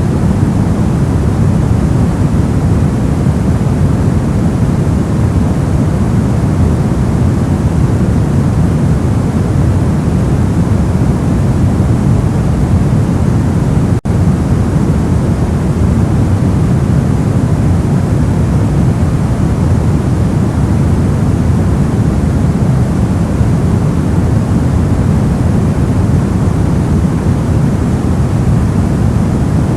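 Steady ambient noise track: an even, deep hiss weighted toward the low end, with one momentary dip about halfway through.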